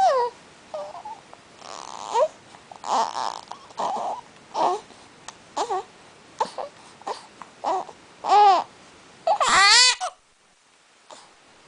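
A seven-week-old's short, high-pitched whimpering cries, about a dozen in a row, each bending up and down in pitch. The loudest and longest, a wavering cry, comes near the end.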